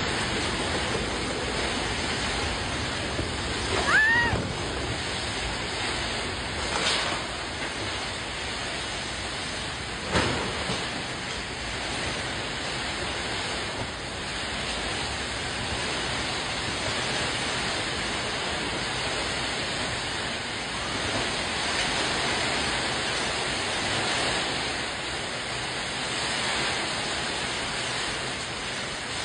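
Summer thunderstorm: a steady roar of wind and rain. A brief rising whistle-like sound about four seconds in, and sharp knocks near seven and ten seconds.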